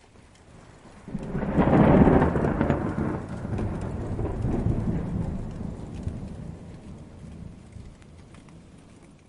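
Distant thunder rolling in over steady rain: the rumble swells suddenly about a second in, is loudest around two seconds, then rolls on and fades away over several seconds.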